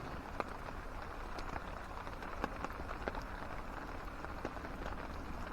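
Steady rain with scattered louder drops ticking at uneven intervals.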